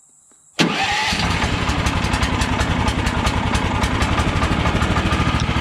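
HM130 Max sawmill's gasoline engine starting on choke: about half a second in it fires at once, then settles into a steady, even run, starting readily after sitting for a few weeks.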